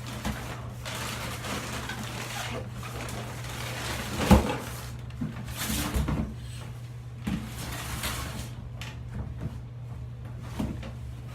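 Handling noises from containers and bags of dry ice: rustling and scattered knocks, with one loud thump about four seconds in, over a steady low hum.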